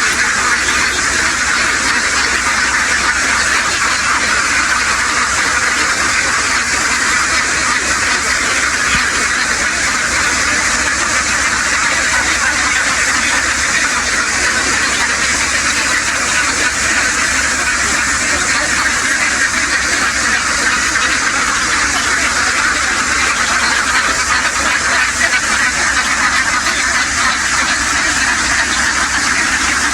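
A huge flock of domestic ducks quacking all at once, a dense, continuous din with no pauses.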